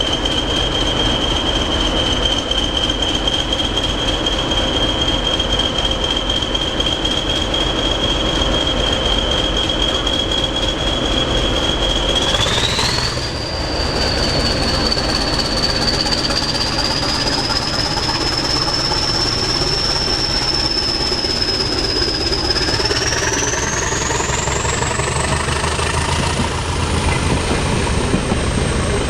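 Heritage train running, a steady rumble with a high-pitched whine above it; the whine jumps up in pitch a little before halfway and climbs higher again in the last few seconds.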